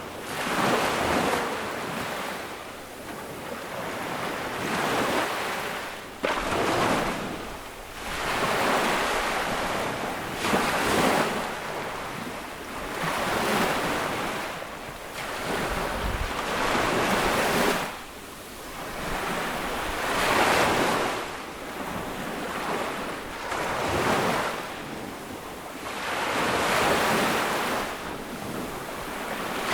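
Ocean waves breaking on a beach, the surf swelling and washing back in repeated surges every few seconds, with some wind.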